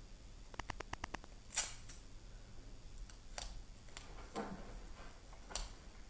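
A quick run of about seven small clicks, then several scattered single clicks and short rustles: small handling noises in a small room.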